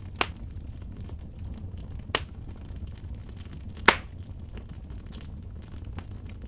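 Wood fire burning in a fireplace: a steady low rumble with light crackling, and three sharp pops from the burning wood, the loudest about four seconds in.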